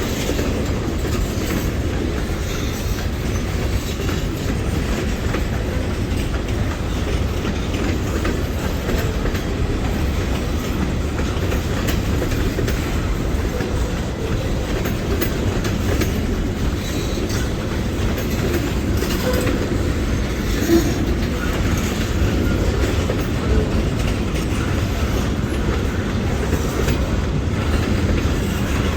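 Freight train cars rolling past steadily, their wheels clattering over the rail joints.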